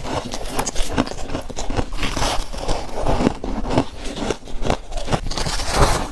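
Close-miked biting and crunching of frost-covered ice chunks in the mouth, a rapid irregular run of crisp crunches.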